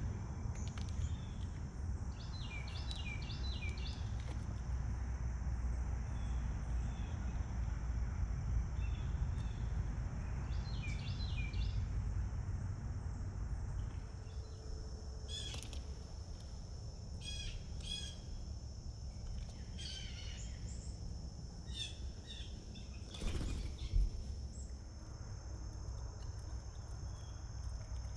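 Small birds chirping in short clusters of quick, falling notes, then sharper single chirps, over a steady high-pitched buzz and a low outdoor rumble. A single knock about three-quarters of the way through.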